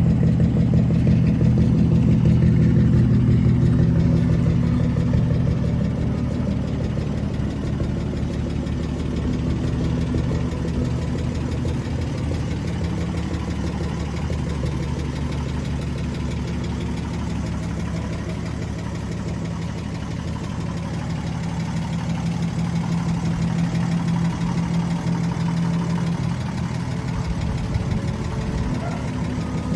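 Car engine idling steadily, a little louder in the first few seconds.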